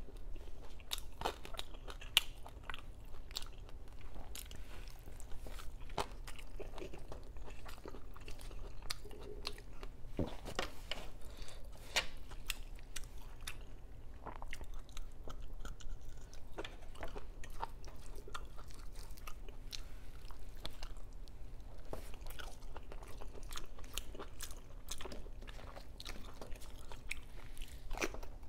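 Close-miked chewing and crunching of food, with many short sharp crackles and mouth clicks. Near the end, a bite into a crisp cucumber slice.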